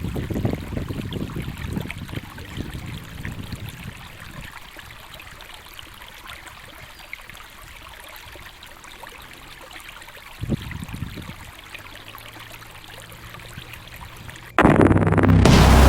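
Running water, a steady hiss, with wind buffeting the microphone in the first few seconds. Loud music cuts in suddenly about a second before the end.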